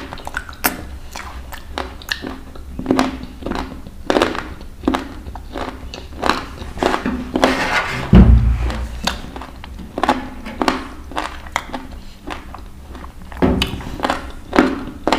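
Close-miked chewing and mouth sounds of a man eating roasted chicken by hand: a run of irregular wet clicks and smacks. A heavy low thud comes about eight seconds in and another about thirteen seconds in.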